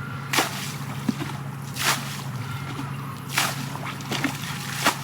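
Wet sloshing strokes of water or mud being worked by hand, four of them evenly spaced about a second and a half apart, over a steady low hum.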